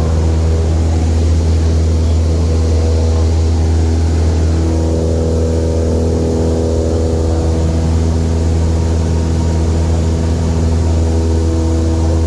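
Small propeller airplane's piston engine running with a steady drone and strong low hum, at constant power.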